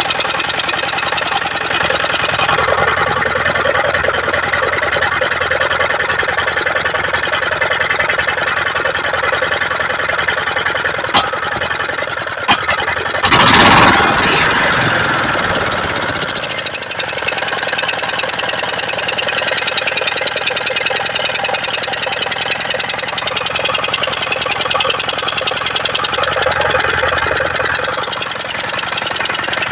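12 hp diesel engine running steadily. Two sharp clicks come a little before halfway, then a loud rush of noise lasts about three seconds.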